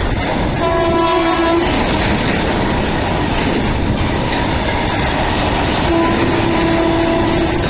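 A train running through with a steady rumble and rattle of wheels on rail. Its horn sounds twice: a short blast about half a second in, and a longer one near the end.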